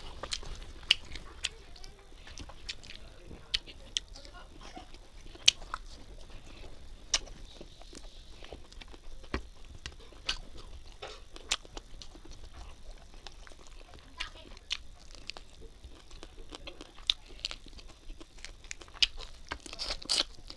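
Close-up mouth sounds of a person eating rice and fried fish by hand: chewing and lip-smacking, heard as a run of irregular sharp clicks.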